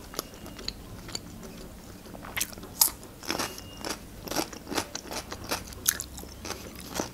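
Chewing with sharp, crisp crunches, sparse at first and coming thick and fast from about two and a half seconds in, as a piece of green vegetable is bitten and chewed.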